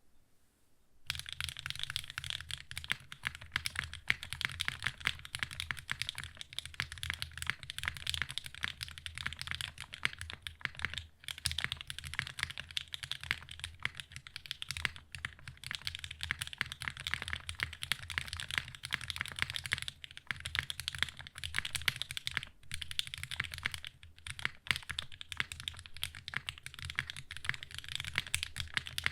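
Fast continuous typing on a mechanical keyboard: SingaKBD Unikorn with HMX Snow Crash linear switches, aluminium plate with 50A O-ring mount, and GMK keycaps. It is typed to a rail bottom-out. The typing starts about a second in.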